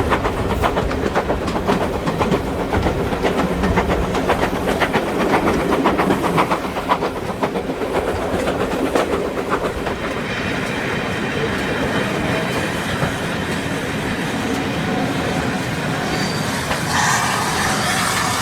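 Steam-hauled passenger train running along the line, with a fast rhythmic clatter of wheels and rumble for about the first ten seconds. It then settles into steadier running noise, and a brighter, higher sound comes in near the end.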